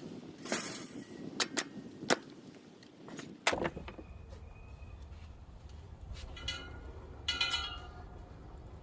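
Metal parts clanking and knocking as a scrap machine is taken apart: several sharp knocks in the first few seconds, then two brief ringing clangs near the end over a steady low hum.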